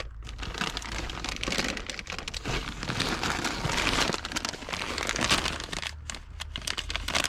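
Continuous crinkling and rustling, like a plastic bag of bird seed being handled as the seed is put down.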